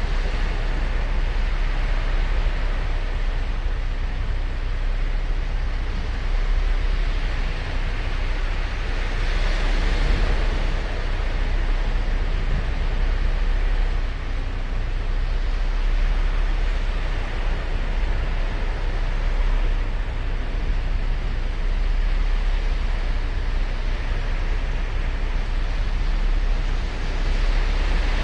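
Ocean surf breaking and washing up a sandy beach: a continuous rush of waves with a low rumble beneath, swelling louder about ten seconds in and again near the end.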